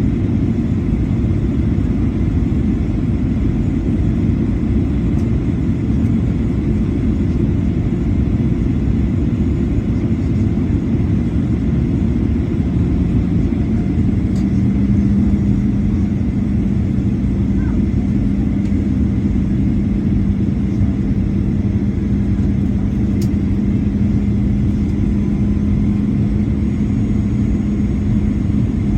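Steady low rumble of a Boeing 737-800 airliner's jet engines, with a droning hum that steps up slightly in pitch and grows stronger about halfway through.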